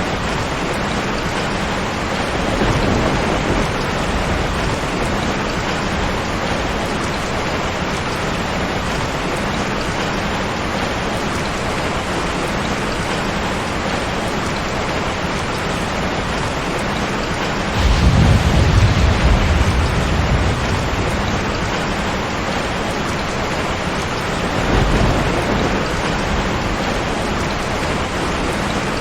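Steady rain falling, with rolls of thunder: a low rumble a few seconds in, a louder one lasting a few seconds a little past the middle, and a smaller one near the end.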